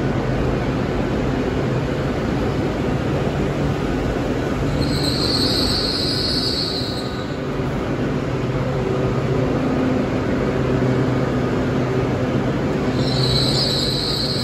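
GWR Class 802 bi-mode train rolling slowly along a station platform as it draws in, with a steady low hum from the train. A high squeal from the running gear comes twice, about five seconds in and again near the end.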